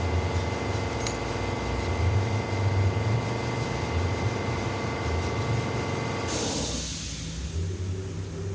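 Engine running steadily with a low hum, then a loud hiss of released air about six seconds in, after which the engine's higher tones die away.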